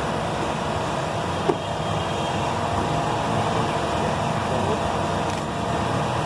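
Steady mechanical drone with one short knock about a second and a half in.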